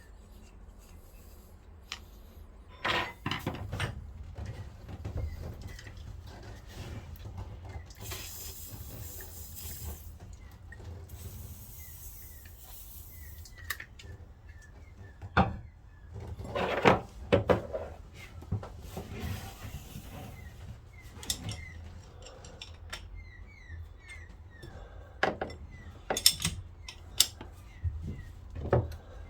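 Hand tools clinking and knocking on metal engine parts, irregular clicks and clunks, the busiest stretch a little past halfway. Two brief hissing noises come about a third of the way in.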